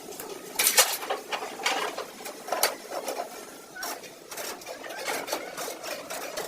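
Irregular sharp knocks and clicks of hand-tool work on a car. The loudest knocks come in a quick cluster just under a second in and again near the middle, with smaller taps between.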